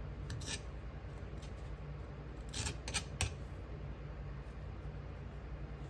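Short scraping strokes of a tool cutting a sprue channel into packed Petrobond casting sand: a few scrapes near the start, then a quick cluster of sharper scrapes around the middle. A steady low hum runs underneath.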